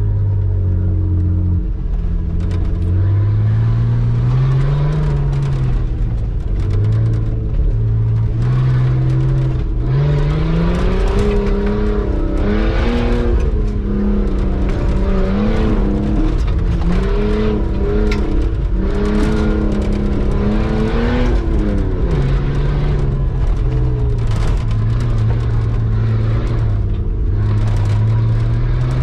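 Nissan Patrol Y60's swapped-in Skyline RB25 turbo straight-six heard from inside the cabin while driving off-road, its note rising and falling with the throttle. It revs higher through the middle stretch and drops back about two-thirds of the way through. Frequent short knocks and rattles run over it.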